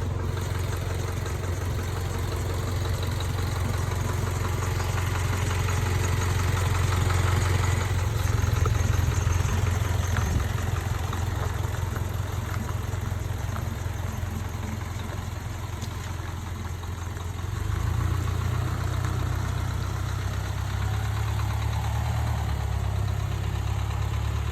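A vehicle engine idling steadily, its low hum shifting and getting a little louder about three quarters of the way through.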